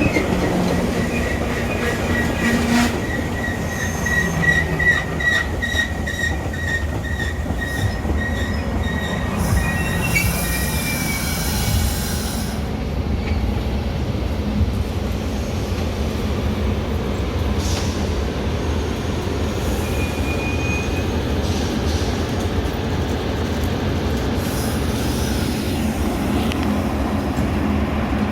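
Metra commuter train running on the rails with a steady low rumble. A high, thin wheel squeal sounds through roughly the first nine seconds, and a short hiss follows at about ten to twelve seconds.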